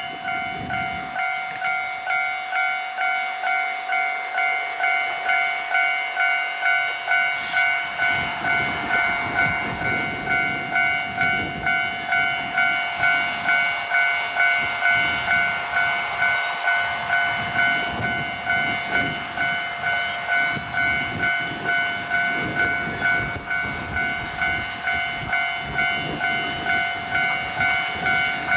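Railway level-crossing warning bell ringing: one pitched ding repeated at a steady, fairly quick rate, with the rumble of a train beneath it from about a quarter of the way in.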